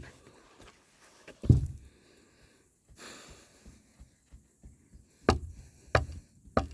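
Footsteps thudding at a brisk walking pace, with a loud thud about a second and a half in and a breath heard in between.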